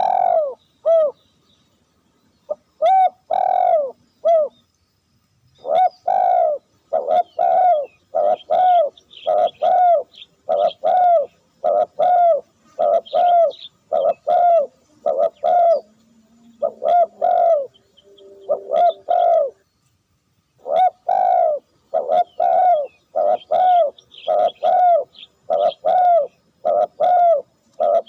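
A dove cooing: a long run of short, rounded coos, about one or two a second, with brief pauses between bouts, as used to lure wild doves.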